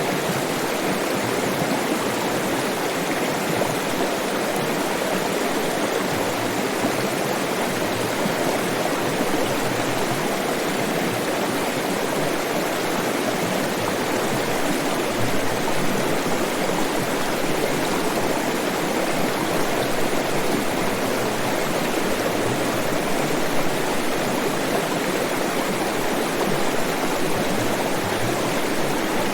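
Flowing stream water rushing steadily, with no change or break.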